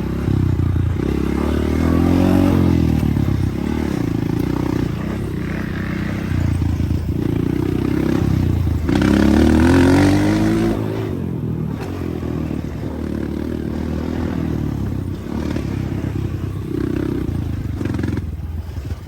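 Dirt bike engine running, revving up with rising pitch about two seconds in and again about nine seconds in, then dropping back.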